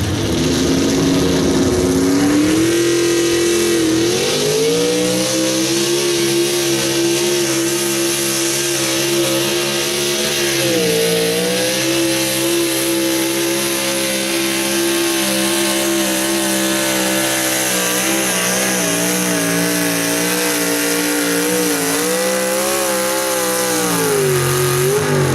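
Super stock two-wheel-drive pulling truck's engine running hard under load during a pull. The revs climb in the first few seconds and hold high and steady, with a brief drop and recovery about eleven seconds in and another near the end.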